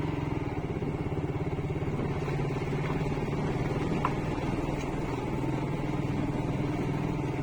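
Motorcycle engine running steadily while riding, a fast, even beat throughout.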